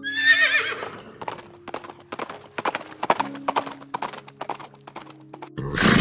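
A horse whinnies once, a quavering call that falls in pitch, then hooves clip-clop in an irregular run of hoofbeats, with a loud noisy burst near the end. Background music plays throughout.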